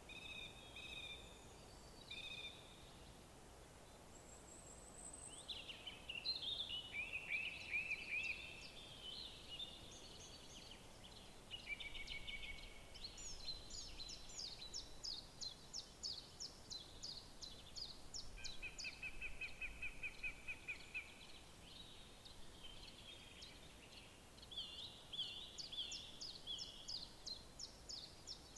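Several woodland songbirds singing in overlapping phrases, with rapid trills around the middle and again near the end, over a faint steady background hiss.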